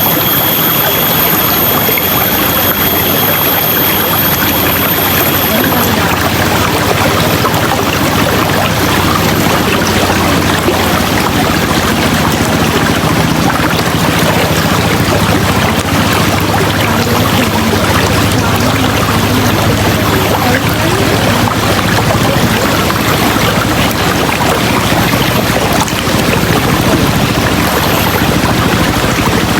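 River water rushing steadily over rocks, a loud, unbroken wash of sound. A faint high steady whine is heard under it for the first few seconds.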